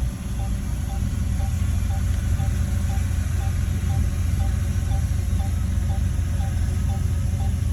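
Heavy earthmoving machine's diesel engine running steadily with a deep rumble, with a faint, short high chirp repeating about twice a second over it.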